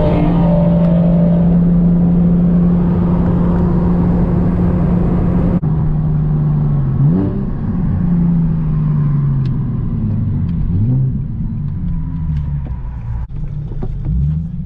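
Nissan 370Z Nismo's V6 engine, heard from the car, holding steady revs for about five seconds. Then the revs rise and fall several times.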